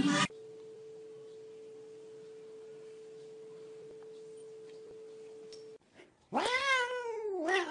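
A steady, faint single tone for about five seconds. Then, about six seconds in, a loud drawn-out cat meow that rises and falls, with a second meow starting near the end.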